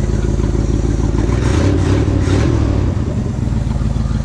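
1967 Ford F100's FE big-block V8 running just after its first start in over 20 years, with an exhaust leak. It is blipped up briefly about a second and a half in, then drops back to idle.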